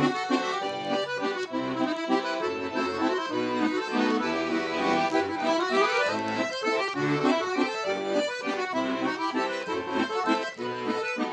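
Russian garmon (button accordion) playing an instrumental break in a folk-style song, a lively melody over rhythmic bass notes.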